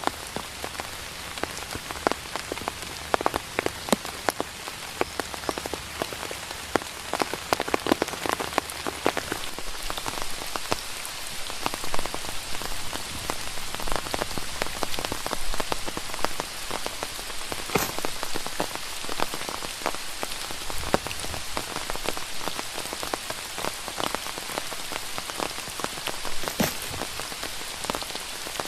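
Steady rain falling, with many individual drops striking close by as sharp, irregular ticks.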